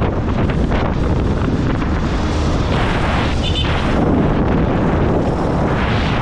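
Strong wind buffeting the microphone, a loud, steady rushing roar.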